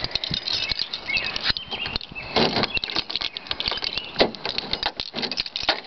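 A run of clicks, rattles and rustles from keys and handling as a car door is unlocked and opened, with a couple of heavier knocks.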